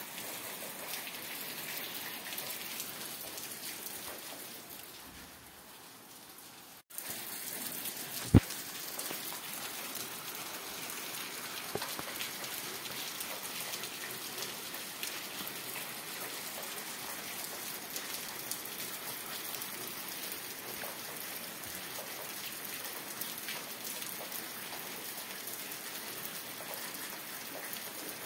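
Steady rain falling. It fades down a few seconds in, cuts out for an instant, and comes straight back at full level. A single sharp click, the loudest sound, follows just after.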